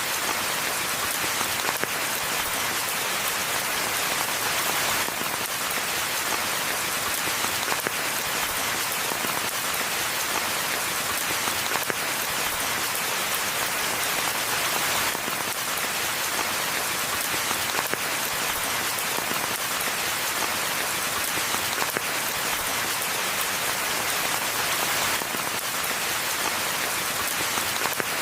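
Steady rain falling on forest ground and foliage, an even hiss of many drops with no let-up.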